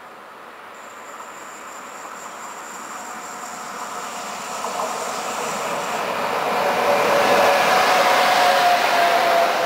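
Train approaching on the electrified Brenner line, growing steadily louder for about seven seconds and then running loud as it draws level. A thin high tone sounds through the first half, and a steady tone rises over the rumble in the last few seconds.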